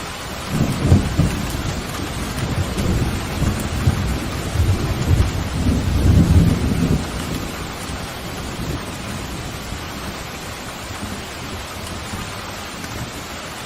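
Steady rain with a long roll of thunder: the low rumble builds about half a second in, swells again around six seconds and dies away by about eight seconds, leaving the rain alone.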